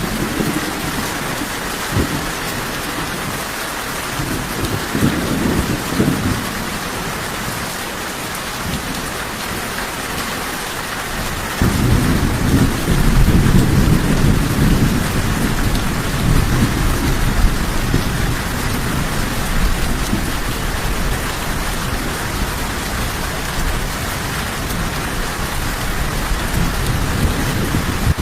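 Steady rain falling, with low rolls of thunder. A long, heavy rumble of thunder begins suddenly about a third of the way in and rolls on, loudest just after it starts.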